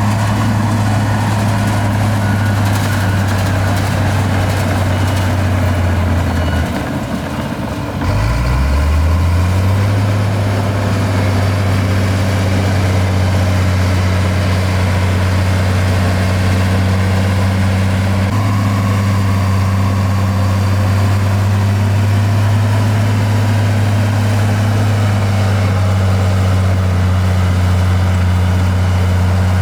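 Heavy machinery diesel engine running steadily under load. About seven seconds in it drops off briefly, then revs back up and settles into a steady run again.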